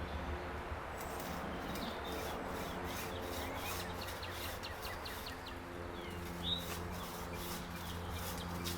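Small birds giving a few short chirps in woodland, over a steady low drone, with a run of repeated short rustling or scraping strokes.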